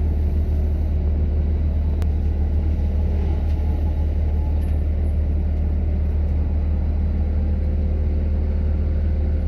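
Kubota skid steer's diesel engine running steadily with a deep, even rumble.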